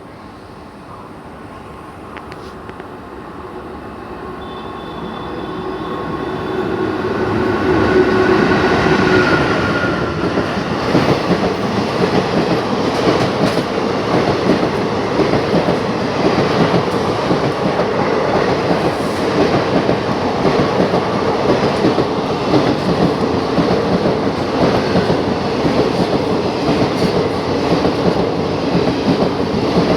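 Express train hauled by a WAP-4 electric locomotive, approaching at speed and passing close by. It grows steadily louder over the first eight seconds, then gives way to the steady rush and rapid clickety-clack of the coach wheels over the rail joints.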